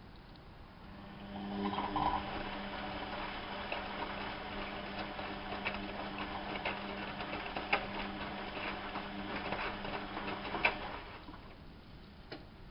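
Bauknecht WAP 6460 front-loading washing machine's motor turning the drum in a wash cycle: a steady hum with scattered clicks and knocks, starting about a second in and stopping near the end, as in the drum's usual run-and-pause tumbling.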